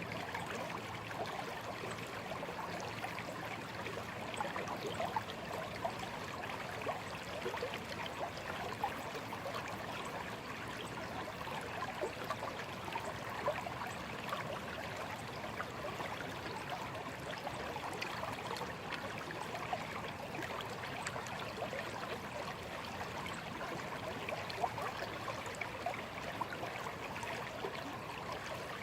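A small stream running steadily over stones, with a busy babble of little splashes and trickles.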